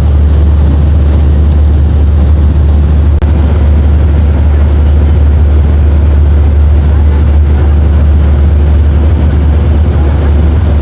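Steady cabin noise inside a Boeing 737-500 in flight: a loud, constant low drone from the engines and airflow, with an even rush above it.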